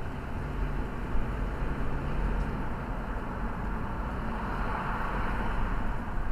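Steady road and engine noise heard from inside a moving car, swelling slightly about five seconds in.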